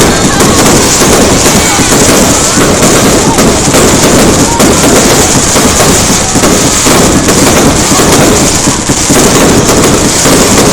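Aerial fireworks going off in a loud, unbroken barrage of overlapping bangs and crackles.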